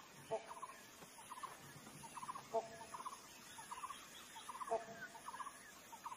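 Faint bird calls: short groups of three or four quick notes repeat throughout, and a lower call comes three times, about two seconds apart.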